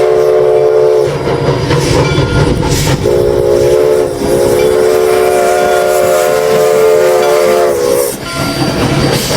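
Steam locomotive's multi-note chime whistle blowing two loud blasts, one ending about a second in and a long one of about five seconds, over the running rumble and clatter of the moving train.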